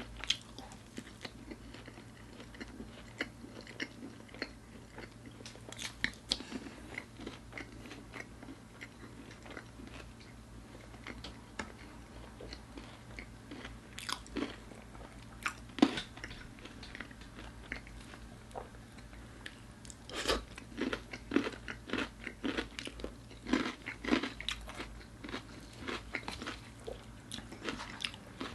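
Close-miked eating of crispy fried chicken: crunchy bites through the coating and chewing, in irregular bursts of crackles that come thickest near the middle and again in the last third.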